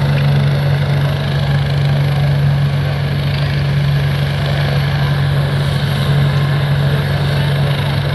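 Helicopter running steadily: a strong low hum over a broad rushing noise.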